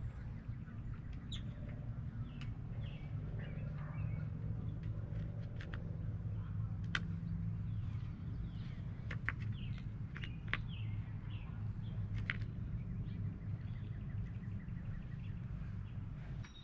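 Birds chirping now and then over a steady low rumble, with scattered sharp clicks and knocks.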